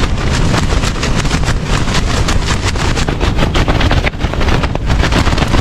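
Strong gale wind buffeting the microphone: a loud, gusty rumble with rapid, irregular crackling blasts.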